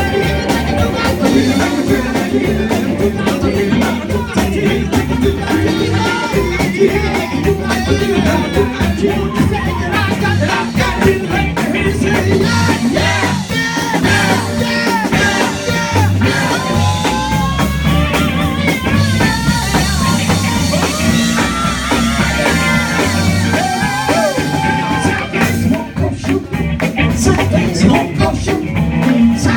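Upbeat gospel music: a band with drum kit playing a steady beat while voices sing.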